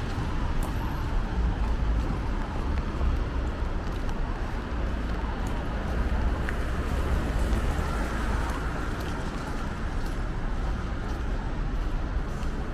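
Steady city road traffic noise: a continuous low rumble of passing cars with no single event standing out.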